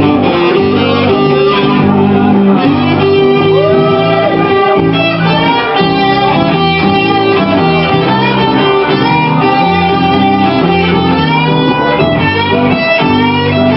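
Live band playing an instrumental passage: a lead guitar line with sliding, bent notes over guitar and bass.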